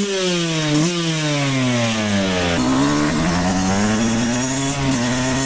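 Two-stroke dirt bike engine revving hard: its note climbs at the start, then sinks steadily under load, with a short jump about a second in, before settling into a steadier wavering note about two and a half seconds in.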